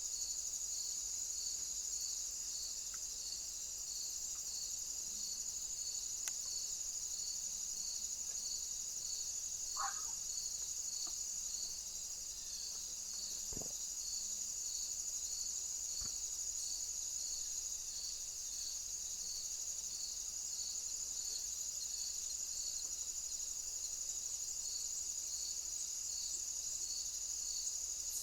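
An insect chorus: a steady high-pitched trill with a regular chirp repeating roughly one and a half times a second. There are a few faint short sounds around the middle.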